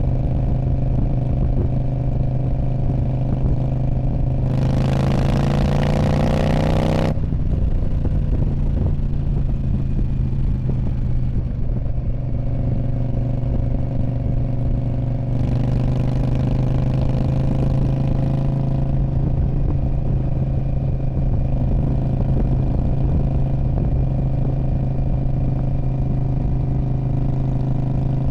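2019 Indian Scout Bobber's 1133 cc V-twin running through a Freedom Performance Radical Radius exhaust, holding a steady note. About five seconds in the throttle opens and the pitch climbs for a couple of seconds before cutting off sharply, and around sixteen seconds in a second, gentler climb follows.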